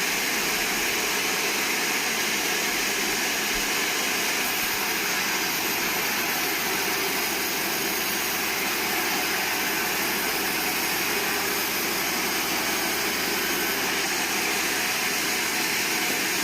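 Band sawmill running with a steady, even noise that does not change in level.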